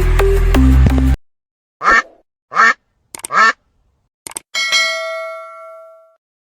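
Background music with a beat cuts off about a second in. Then come three duck quacks, each a short downward call, followed by a couple of clicks and a bell chime that rings on and fades away.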